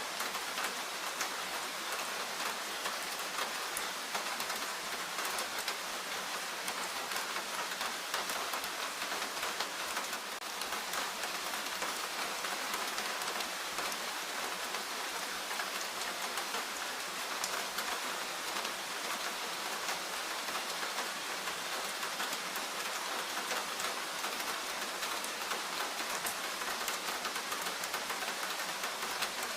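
Steady rain falling in a forest: an even hiss of rainfall with many small, close drop ticks, unchanging throughout.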